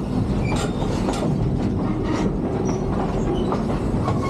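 Train cars rolling slowly along the track, wheels clicking over the rail joints at an uneven beat over a steady rumble, with a few brief squeals from the wheels.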